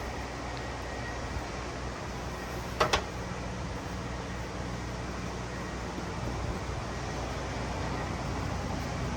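A vehicle running steadily: a low engine hum under road noise. Two quick clicks come close together about three seconds in.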